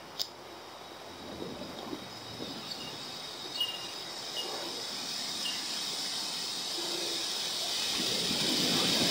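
Several short, high-pitched pinging bird notes, spaced a second or so apart, over a steady hiss that grows louder toward the end. A single sharp click sounds just after the start.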